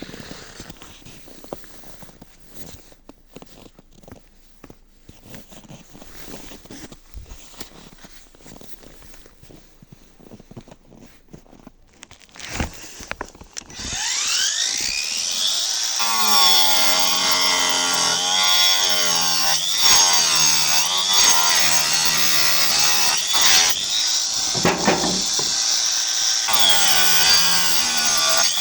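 Einhell cordless angle grinder with a wood-cutting disc. About 14 s of quiet clicks and rustles, then the grinder spins up with a rising whine and runs loud, its motor pitch dipping and recovering again and again as the disc bites into wood.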